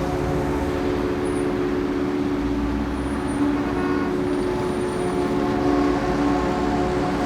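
Ambient synth drone holding a few steady, sustained notes, layered over a continuous hum of city and traffic noise.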